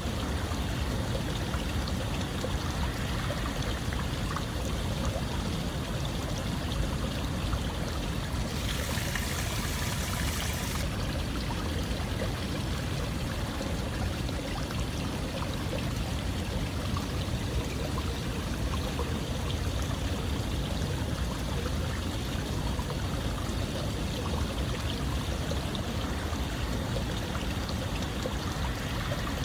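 Running water flowing steadily, like a stream. A brighter, hissier splash comes in for about two seconds roughly a third of the way through.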